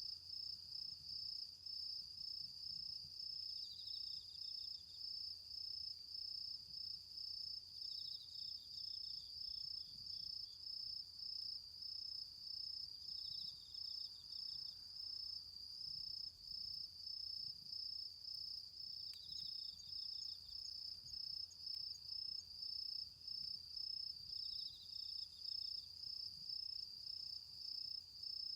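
Crickets singing: one keeps up a steady, rapidly pulsing high chirp, while another adds a short trill that repeats every five seconds or so.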